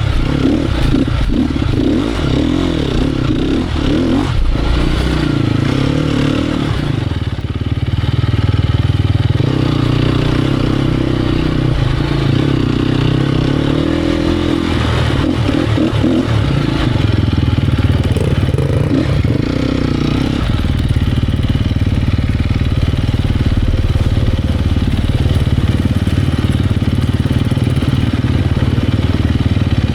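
Single-cylinder four-stroke engine of a Sherco 250 SEF Factory enduro bike running under load while ridden, its revs rising and falling with the throttle.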